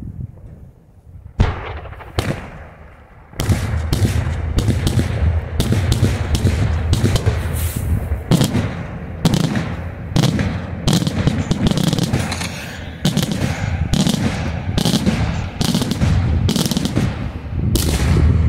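Daytime fireworks shells bursting in the sky with sharp bangs. A single bang comes about a second and a half in, then from about three and a half seconds a dense barrage of reports, roughly two a second, over a continuous low rumble.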